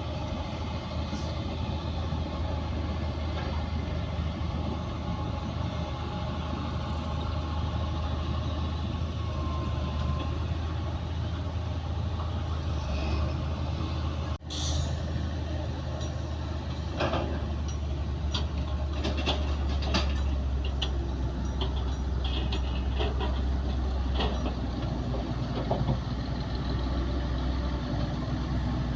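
Bulldozer's diesel engine running steadily under load, with scattered metallic clanks and squeaks in the second half.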